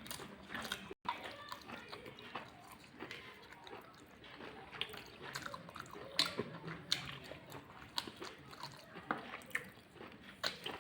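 Close-miked eating: a person chewing a mouthful of rice and chicken curry, with scattered wet mouth clicks and smacks.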